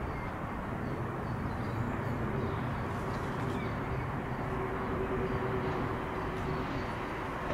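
Electric multiple-unit train running with a steady rumble and a constant hum, with no pass-by swell.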